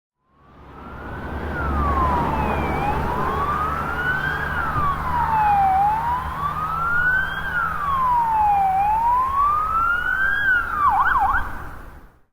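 Police siren in wail mode, its pitch rising and falling slowly about every three seconds. Near the end it switches to a quick yelp, then cuts off suddenly.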